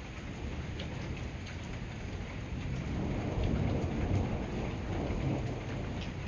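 Rain falling steadily with scattered drip ticks, and a low roll of thunder that swells about halfway through and eases near the end.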